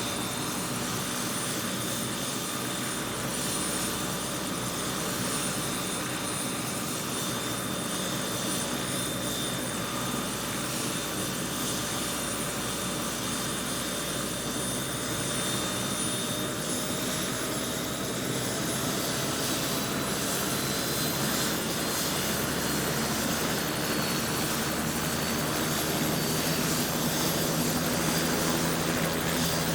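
Helicopter in flight, its rotor and turbine running steadily with a continuous whine. It grows slowly louder toward the end, and the whine rises gently in pitch.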